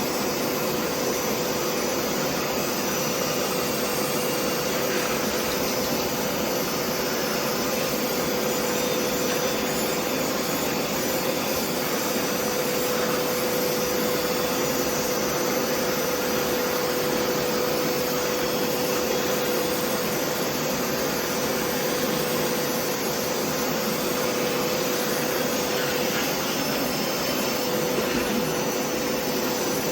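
Hoover PowerScrub carpet cleaner's suction motor running steadily with a constant whine as its upholstery attachment is worked over sofa fabric.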